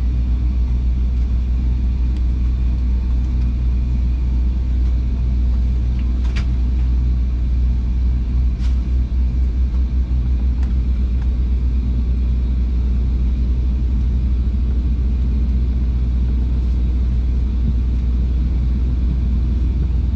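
Steady low rumble inside a jet airliner's cabin with the engines running at low power before takeoff, with two short clicks about six and nine seconds in.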